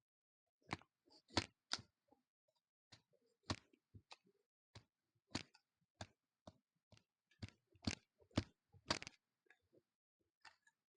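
A string of irregular sharp clicks and knocks, about a dozen, with silence between them, the loudest near the middle and shortly before the end.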